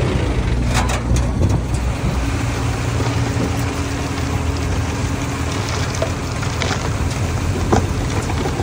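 Mini bulldozer's diesel engine running steadily under load, with a few sharp clicks and knocks from the tracks and pushed stone.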